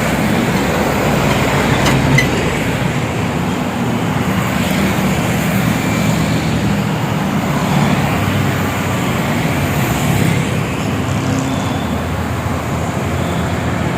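Truck driving at speed on a highway: a steady engine drone under tyre and traffic noise.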